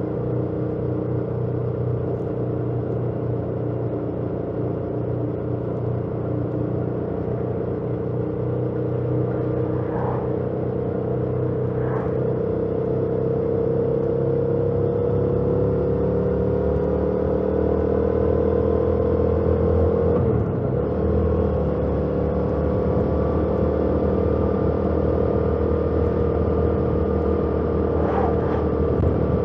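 2018 Yamaha MT-07's parallel-twin engine running under way through its stock exhaust. Its pitch climbs slowly over the first two-thirds, wavers briefly, then holds steady.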